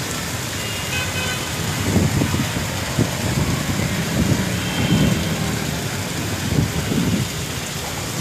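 Heavy monsoon rain falling steadily, with several irregular low rumbles rising through it a second or so apart.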